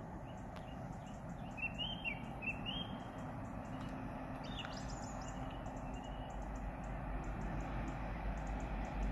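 Small birds chirping in short rising calls, a cluster about two seconds in and another near five seconds, over a steady background hum. A low rumble grows slowly toward the end.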